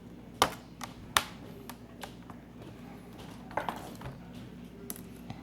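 Sharp clicks and taps of a small screwdriver and tiny screws against a laptop screen assembly while trying to get a screw to seat. There are two loud clicks in the first second or so and a short cluster of lighter taps a little past the middle.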